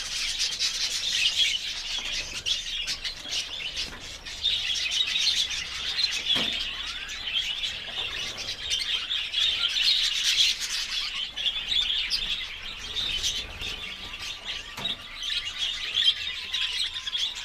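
Lovebirds chattering: a dense, unbroken stream of high chirps and tweets.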